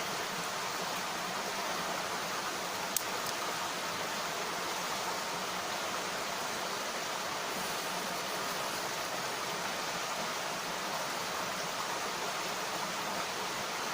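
Mountain stream rushing steadily over rocks, with a single sharp click about three seconds in.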